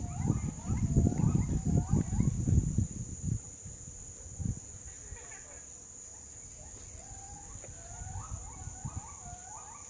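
A bird calls in runs of short upslurred notes, a few a second, in the first couple of seconds and again near the end, over a steady high-pitched insect drone. A low rumble is the loudest sound in the first three seconds.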